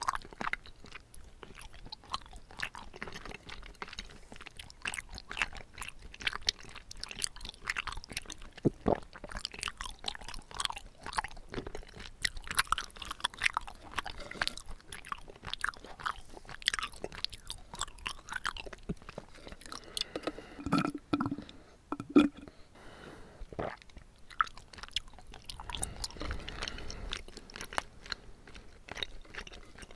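Close-miked chewing of bubble tea tapioca pearls: a steady run of small, wet, irregular clicks and smacks, with a few louder low sounds about two-thirds through.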